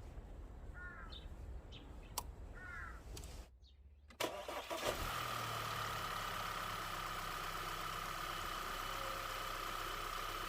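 A few faint bird chirps, then just after four seconds a car engine is cranked, catches and settles into a steady idle with a constant whine. It idles smoothly without shaking, the cylinder 2 misfire cured by the new ignition coil and spark plug.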